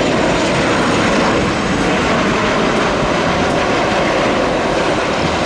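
Boeing 737-800 jet airliner's CFM56 turbofan engines heard at close range near the runway: a loud, steady rush of jet noise.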